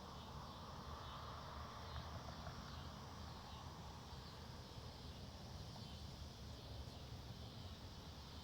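Faint, steady woodland ambience: low wind noise with a high, even insect hum over it, the wind swelling slightly a couple of seconds in.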